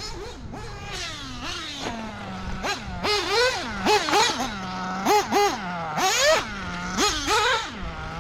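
Nitro engine of a 1/8-scale Mugen MBX8R buggy, an OS Speed 21 XZ-B Ty Tessmann, being driven: a high-pitched buzz that repeatedly revs up in quick bursts and drops back to a lower steady pitch between them, about a dozen throttle blips.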